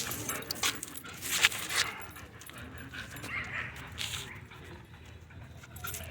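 A dog whimpering, with several sharp knocks or scuffs in the first two seconds, the loudest about a second and a half in.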